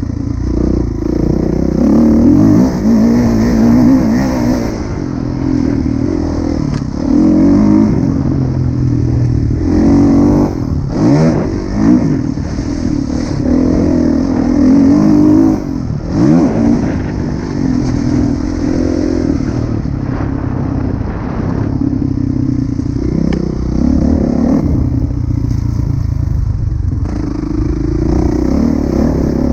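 Kawasaki KX450F dirt bike's four-stroke single-cylinder engine ridden hard, its revs rising and falling over and over, with a few quick sharp blips of throttle midway.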